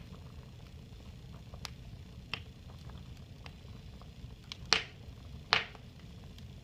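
Fire crackling: scattered sharp pops at irregular intervals over a low steady rumble, the two loudest near the end, under a second apart.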